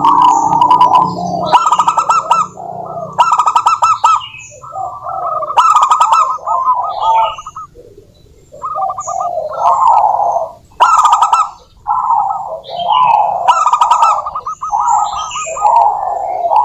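Zebra doves (perkutut) cooing: rapid, rolling staccato coo phrases that repeat every second or two with short pauses between them.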